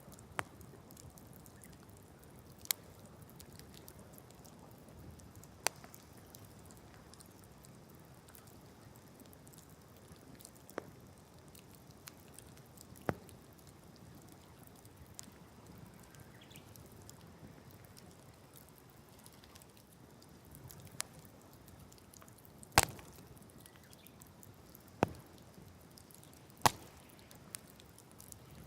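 Open wood fire crackling: a soft steady rush with about nine sharp, irregular pops from the burning wood, the loudest about three-quarters of the way through.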